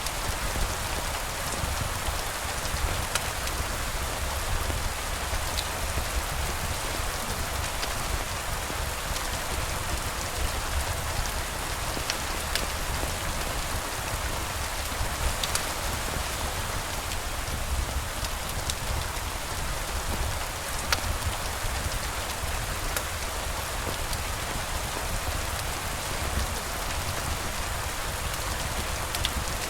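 Steady rain falling, with scattered sharp ticks of single drops and a low rumble underneath.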